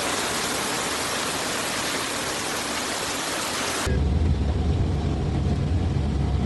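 Heavy rain hissing steadily. About four seconds in it cuts off abruptly to a deep, steady rumble.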